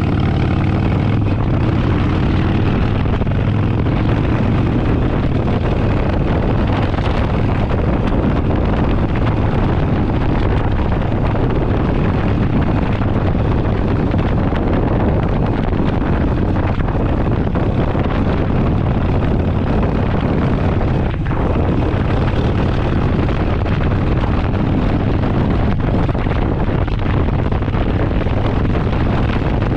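Harley-Davidson Forty Eight's 1200 cc V-twin engine running steadily while the bike is ridden, with wind rushing over the microphone.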